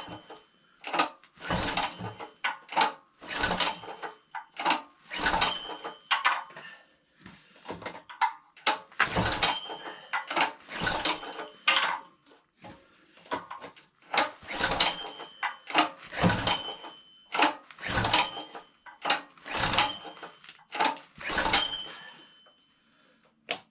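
Portable generator being pull-started over and over, a long series of recoil-rope pulls about one a second with a few short pauses, the engine not catching. The engine is cold-soaked at about -25 °C and will not fire.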